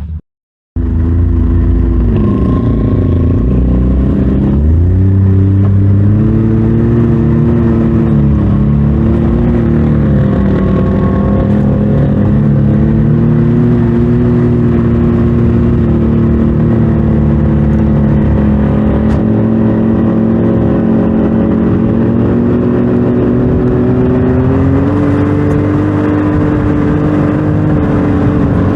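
Side-by-side UTV engine running while driving, its pitch dipping and rising with the throttle: it drops twice in the first ten seconds, then climbs again near the end. It starts after a brief moment of silence.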